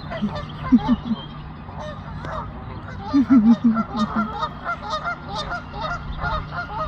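Geese honking in a ruckus: many short honks keep overlapping, with a louder run of deeper honks about three seconds in. The calls come from an agitated goose kicking up a fuss.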